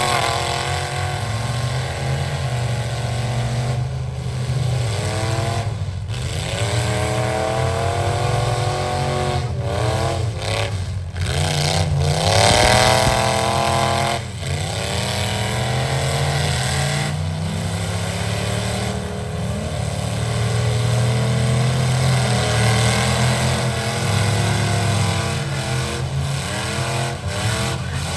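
Pickup truck engine revving hard under load during a truck pull. The revs climb and drop back in repeated surges, with the longest, highest climb about twelve seconds in.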